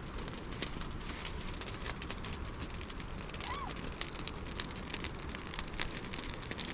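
A steady hiss dotted with many small crackles and pops, with one brief rising-and-falling pitched sound about halfway through.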